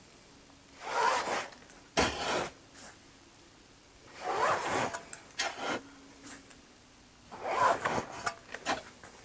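Dried chaga pieces being scooped and poured into a bag: three rustling, scraping pours about three seconds apart, with a sharp knock after the first and small clicks near the end.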